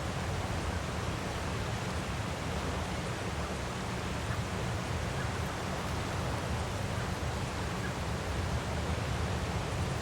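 Steady rushing of a waterfall, an even wash of white noise, heavier in the low rumble.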